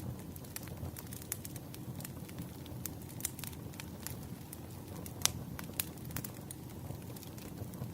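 Campfire crackling: scattered sharp pops and snaps over a low steady rumble of burning wood, with one louder pop a little past the middle.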